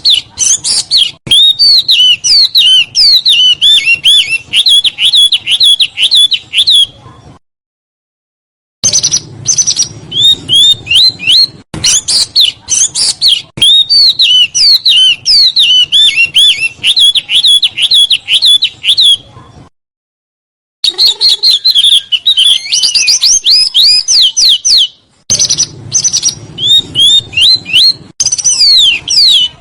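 A small songbird singing rapid, tightly packed rolls of clear chirping notes. The phrases run several seconds each and are cut by sudden full silences, as in an edited, looped masteran tutor recording used to train caged songbirds.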